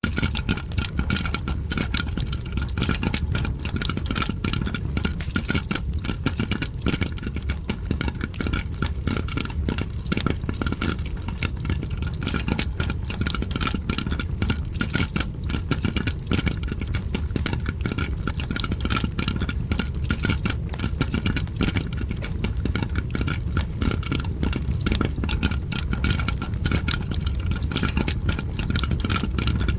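Popcorn popping, a dense, continuous stream of quick pops and crackles, layered with fireplace crackling over a steady low rumble.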